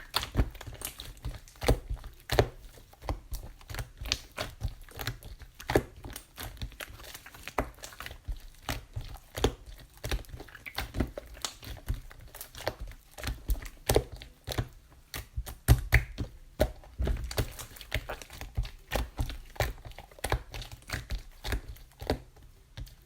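Close-up handling noises: irregular light taps, clicks and crinkling, several a second, with soft low thumps among them.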